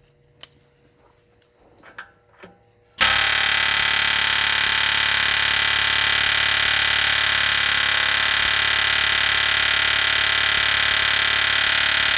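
Pneumatic air hammer with a tapered punch bit hammering steadily on a steel truck-frame rivet. It starts suddenly about three seconds in, runs loud and even for about nine seconds and cuts off abruptly. The rivet does not come free: the taper swells it back out in the hole.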